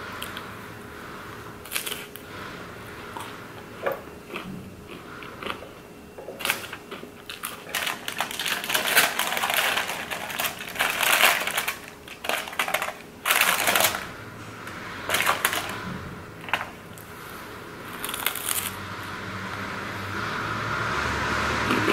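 Close-up eating sounds: crunching and chewing of pizza topped with crunchy Cheetos snacks, mixed with crinkling aluminium foil as slices are pulled apart on it. The crackling is irregular, busiest and loudest in the middle stretch.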